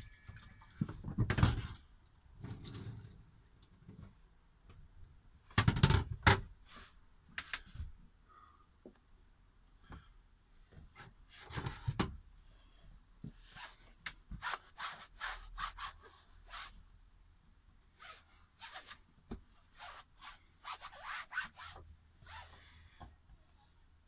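Irregular knocks, taps and short scrapes of vegetables and utensils being handled on a kitchen counter during food prep. There are louder clattering bursts about a second in and again around six seconds in.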